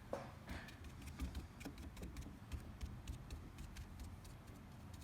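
Sponge brush dabbing acrylic paint onto hardened spray foam: faint, irregular soft taps and clicks, several a second.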